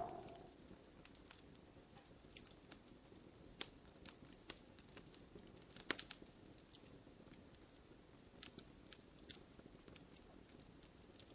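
Wood fire crackling softly in a fireplace, with irregular small pops and snaps and a brief cluster of louder pops about halfway through.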